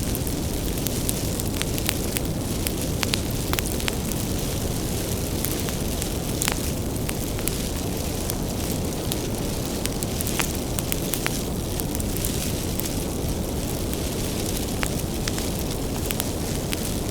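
Bonfire of burning firewood crackling: a steady low rumble of flames with frequent sharp, irregular pops and snaps from the wood.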